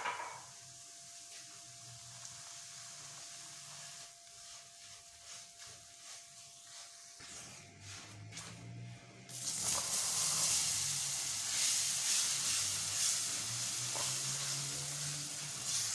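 Semolina sizzling as it roasts in hot fat in a nonstick pan while being stirred with a silicone spatula. The sizzle is faint at first, with a few scraping strokes, then turns much louder about nine and a half seconds in.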